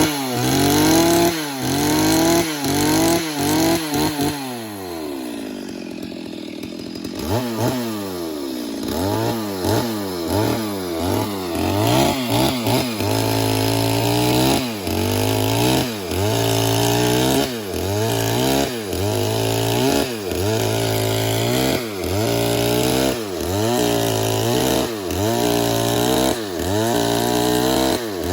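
Stihl MS 382 two-stroke chainsaw cutting wood at high revs. The engine pitch dips and recovers about once a second as the chain bites. It drops toward idle for a few seconds near the start, then goes back to full throttle.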